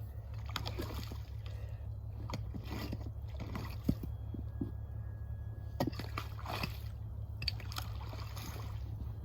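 A hand tool chopping into frozen pond ice, with about eight irregular strikes and water sloshing and splashing as the ice is broken open to water cattle.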